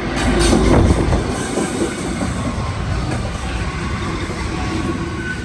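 Freight train passing close by, its wagons' wheels running on the rails. The sound swells quickly to its loudest about a second in, then holds steady.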